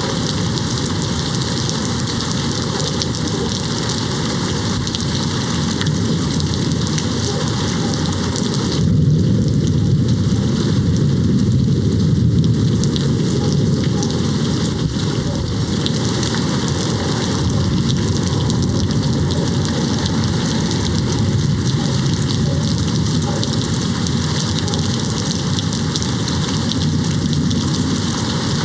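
Steady, heavy rain hitting a window pane. A low rumble of distant thunder swells about nine seconds in and fades over the next few seconds.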